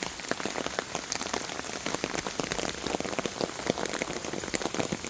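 Steady rain falling, with many close raindrops ticking irregularly.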